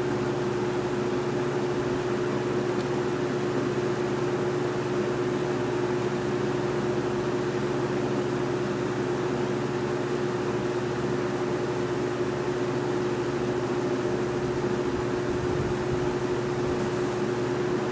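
1971 Monarch Aire 20-inch box fan running steadily: a constant motor hum with one clear steady tone over the rush of moving air.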